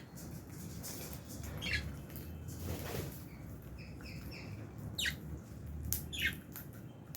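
A flock of Fischer's and albino lovebirds giving short, sharp chirps and squawks several times. There is a brief rustle of wings about three seconds in.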